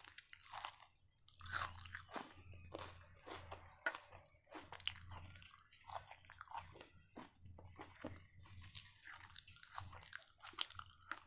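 Close-miked chewing of raw onion and chicken kebab: irregular crisp crunches and wet chewing, one after another, with a bite into a slice of raw onion as it begins.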